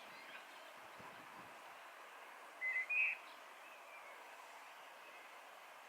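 A bird chirps twice in quick succession, about two and a half to three seconds in, over a faint steady outdoor hiss.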